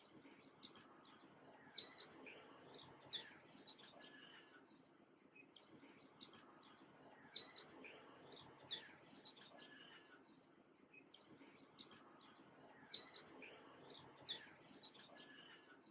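Small songbirds chirping and twittering in quick clusters of high, sweeping chirps that come back about every five and a half seconds, over a faint steady hush.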